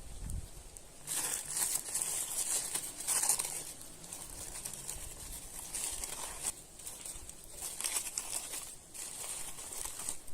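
Irregular rustling and crinkling that comes in uneven surges, like material being handled.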